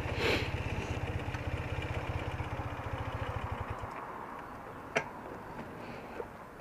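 BMW R80RT's air-cooled flat-twin engine idling with an even low beat, then stopping abruptly about four seconds in. A single sharp click follows about a second later.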